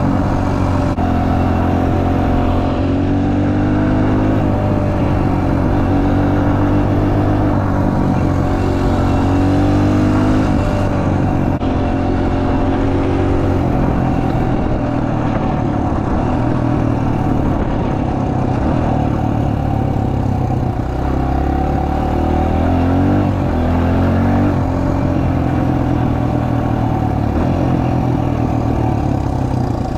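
Suzuki DR-Z125L's 124 cc air-cooled four-stroke single being ridden, its engine note climbing as it accelerates and dropping back at each gear change several times, then running steadier in the second half.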